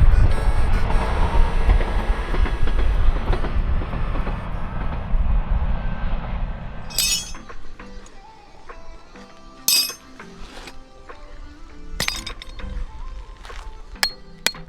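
Tent gear being unpacked and handled. A low rumbling noise fills the first half, then sharp metallic clinks and knocks come one by one, several close together near the end, over background music.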